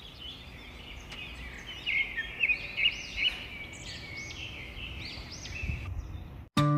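Small birds chirping, many short high calls repeating over a steady background noise. Acoustic guitar music starts abruptly near the end.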